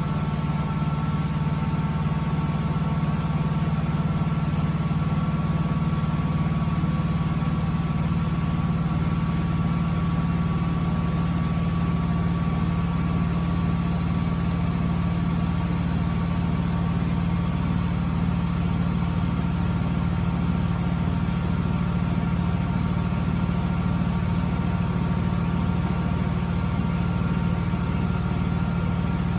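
Miele W Classic WDA211WPM washing machine spinning at a steady high speed: a constant low hum with a steady motor whine above it, no pauses or changes in speed.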